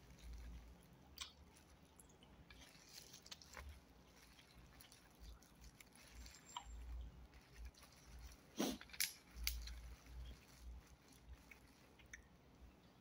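Faint close-up chewing of satay, with scattered soft mouth clicks and smacks and a louder cluster of clicks about two-thirds of the way in. The meat is tough and chewy.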